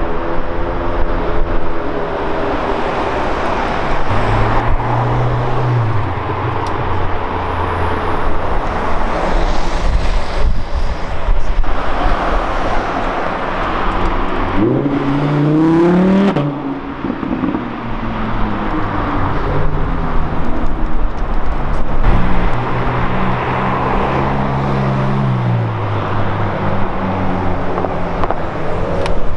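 Supercar engines in city traffic, with cars pulling away and passing and one engine revving up sharply about halfway through.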